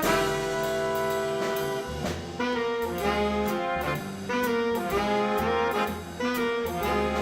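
Swing band with saxophones, trumpet and trombone playing a jazz introduction in held chords, with upright bass and drums beneath.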